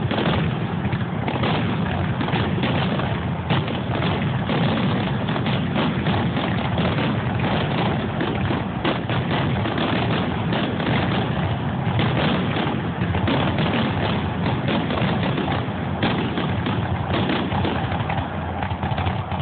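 Fireworks bursting in rapid succession: a dense, continuous run of bangs and crackling with no pause.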